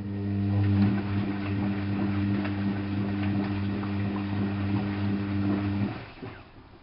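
Washing machine giving a loud, steady electric hum with faint crackling water sounds over it, which cuts off abruptly after about six seconds.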